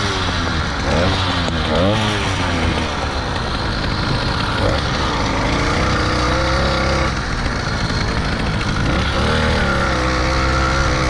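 Small motorized-bicycle engine running while riding, revved in quick up-and-down blips over the first couple of seconds, then held at a steadier, slowly shifting pitch. It runs clean, not soggy, on its freshly mixed fuel.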